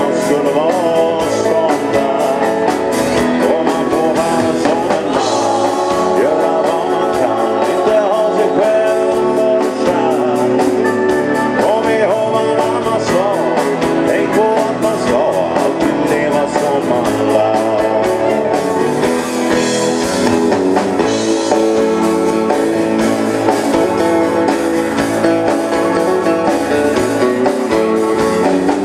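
Live dansband music: the band plays on with a steady beat, with guitar in the mix and no clear lyrics.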